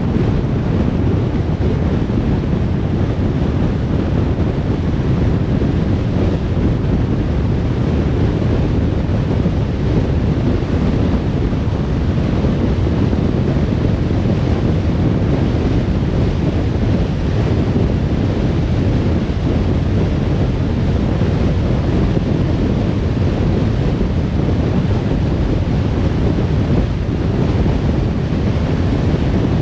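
Steady low road noise of a car driving on the highway: tyres and wind rushing with no breaks or changes.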